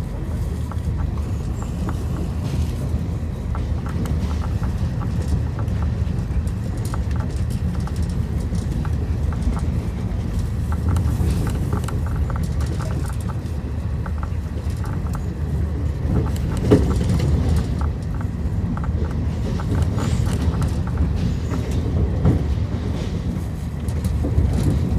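Passenger train running at speed, heard from inside the carriage: a steady low rumble of wheels on rails with scattered clicks and rattles, and one sharper knock about two-thirds of the way through.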